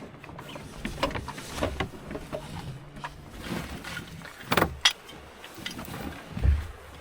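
Sounds aboard a small sailing dinghy under way: water against the hull, with scattered knocks from the boat and its gear. The loudest knocks come about four and a half seconds in.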